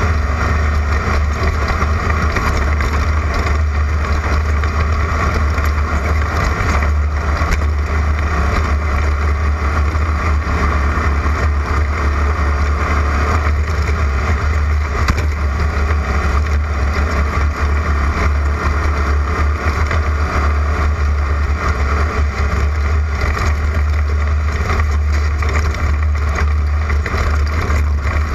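Class 11 stock VW Beetle race car's air-cooled engine running hard and steadily at race pace, over a heavy, unbroken low rumble.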